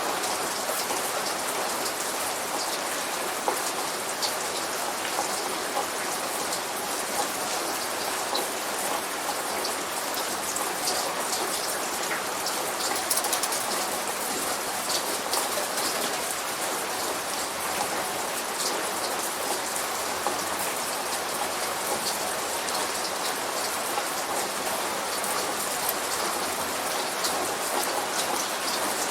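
Steady light rain falling on a surface, a continuous patter of many small drops with frequent fine ticks.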